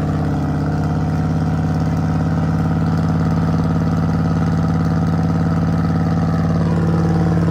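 Car engine idling steadily with a deep, even note.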